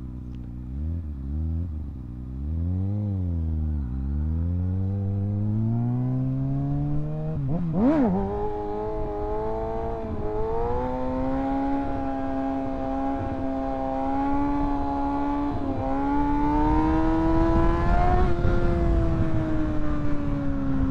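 Kawasaki ZX-6R 636 inline-four engine revving up under throttle, with the revs wavering at first and then climbing steadily. Near 8 seconds there is a quick dip and recovery, after which it holds high revs at speed. Wind rush on the microphone grows louder toward the end.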